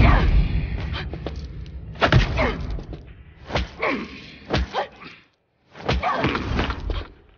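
Fight-scene punch and blow sound effects: a series of heavy thuds and whacks, about five in all, each with a short swish around it.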